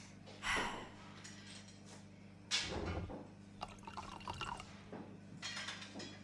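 Faint drips and small splashes of liquid, three or so, with scattered light clicks, over a steady low hum.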